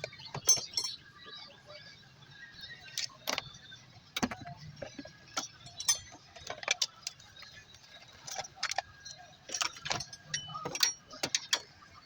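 Metal hand tools and engine parts clinking and clanking during engine disassembly: a string of sharp, irregular metallic knocks, several a second at times.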